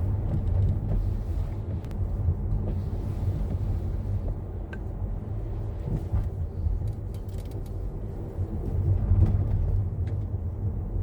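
Steady low rumble of a car being driven, engine and road noise, with a few faint clicks.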